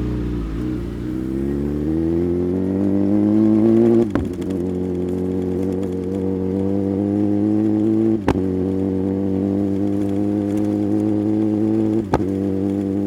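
Sport motorcycle engine accelerating steadily, its pitch climbing. Three sharp upshifts, about four seconds apart, each briefly cut the engine before it pulls on in the next gear.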